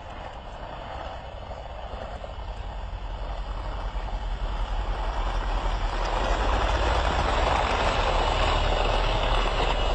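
Vehicle noise: a steady rushing rumble that grows louder over about six seconds and then holds.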